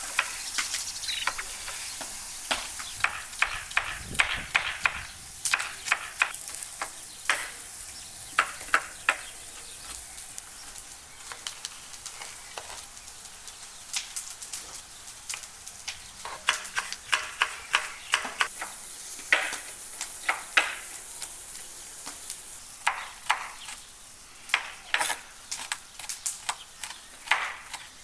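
Food sizzling as it fries in a pan, with a utensil repeatedly clinking and scraping against the pan in irregular clusters as it is stirred.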